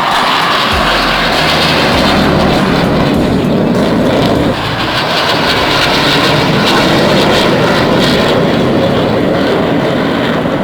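Military aircraft flying overhead: a loud, steady rushing engine noise with a brief dip about four and a half seconds in.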